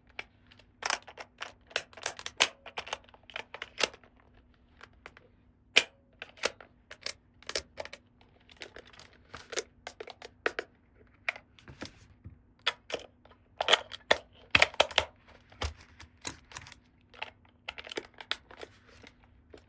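Small plastic toy pieces and packaging being handled: irregular sharp clicks and taps, with some soft rustling between them.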